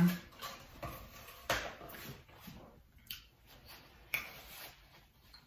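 Eating and handling food at the table: soft rustles and clicks, with two sharper knocks about one and a half seconds in and near four seconds in.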